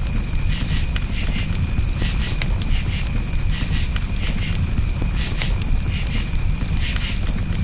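Campfire crackling with scattered sharp pops, over crickets chirping in quick repeated trills and a steady low rumble.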